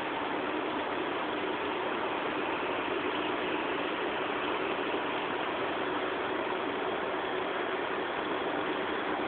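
Heavy tropical downpour, rain falling steadily and densely with no let-up.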